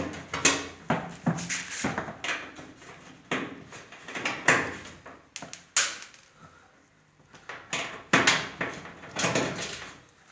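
Irregular knocks, clicks and rattles of washing-machine casing and parts being handled during dismantling, with a quieter pause partway through.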